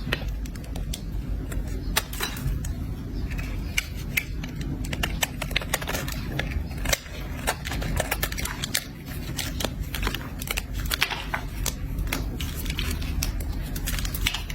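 A blade scraping and cutting a bar of soap, making dense, irregular crisp crackles and clicks, over a steady low rumble.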